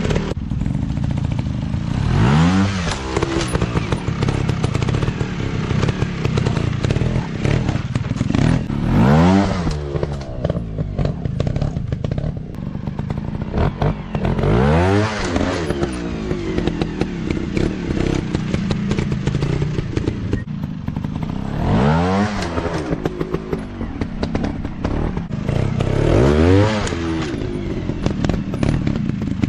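Dirt bike engine running, revving up and back down about five times, every five to seven seconds.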